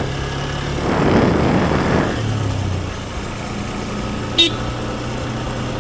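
Motorcycle engine running steadily while riding, with a louder rushing noise that swells and fades between about one and two seconds in, and a brief sharp sound a little after four seconds.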